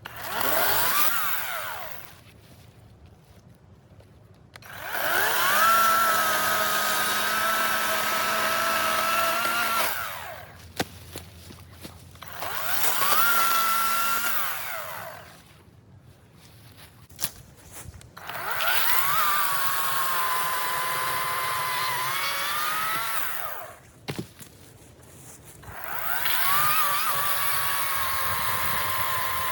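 EGO 56-volt battery chainsaw bucking maple logs. The trigger is pulled five times with short pauses between: each time the electric motor and chain spin up to a steady high whine, which sags a little while the chain is in the wood and then winds down.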